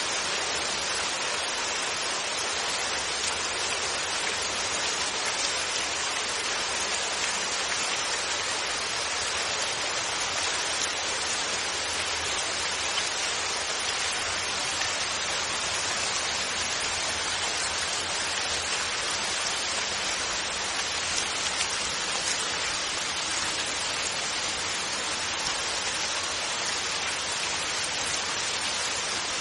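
Steady rainfall: an even hiss that holds at one level, with no thunder.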